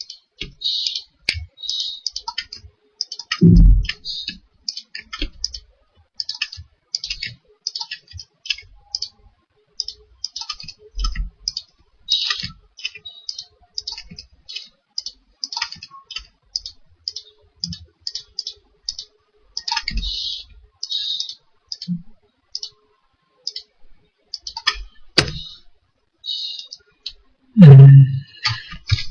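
Computer keyboard being typed on and a mouse clicked in irregular runs of short clicks, with a few dull low thumps and a louder low thud a little before the end.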